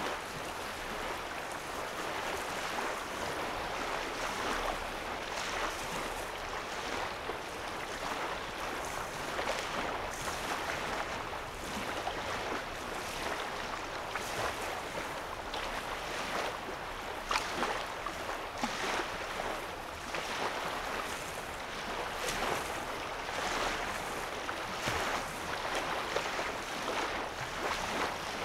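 Small waves lapping on a sandy lake shore: a steady wash of water broken by many short little splashes.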